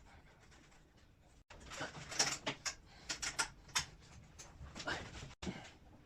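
Scraping, rustling and clicking handling noises in a small room, with the sound cutting out abruptly twice.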